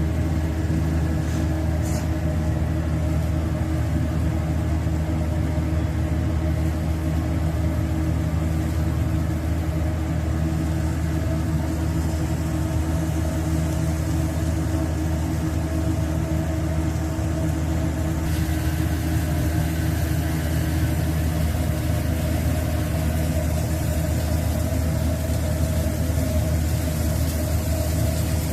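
Steady low machine hum made of a few even tones, with a brighter hiss joining about two-thirds of the way through.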